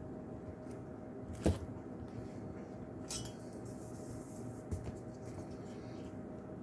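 Handling noises over a steady background hum: a sharp knock about a second and a half in, a click with a brief hiss around the middle, and a smaller knock a little later.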